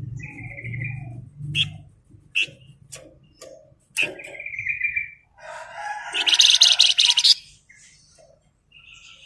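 Flamboyan songbird singing: two held whistled notes, scattered short chirps, then a loud, rapid trilled burst of song about six seconds in.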